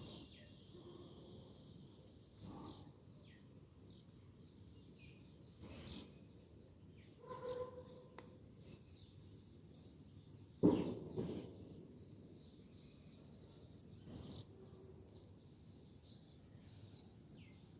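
Pet parrot giving short, high, upward-sweeping chirps, about half a dozen spaced a few seconds apart, with one louder, lower call about eleven seconds in.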